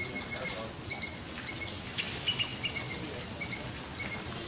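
Small birds chirping in short, repeated high notes over a low, steady background rustle, with a single sharp click about two seconds in.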